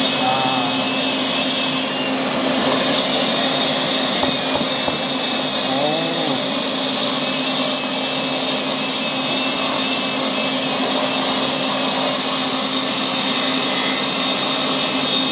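Hilti power tool's motor running steadily under load with a high whine, which drops away briefly about two seconds in.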